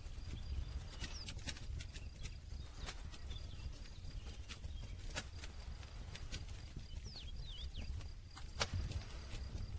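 Wood campfire crackling: irregular snaps and pops over a steady low rumble of the burning fire, with one louder pop near the end.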